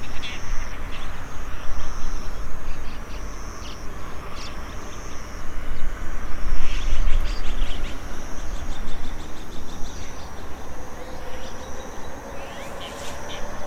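Birds chirping in quick repeated trills, with grass insects buzzing in short steady stretches, over a low rumble. A faint rising hum comes in near the end.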